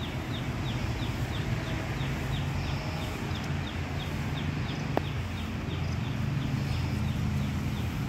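A bird calling a short falling chirp over and over, about three times a second, over a steady low rumble. A single sharp click comes about five seconds in.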